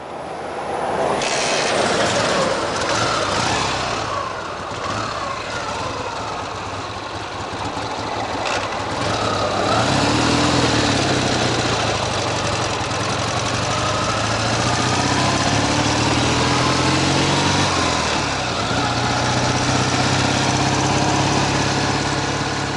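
Ural sidecar motorcycle's flat-twin engine running over a steady rush of noise, its note shifting up and down from about ten seconds in.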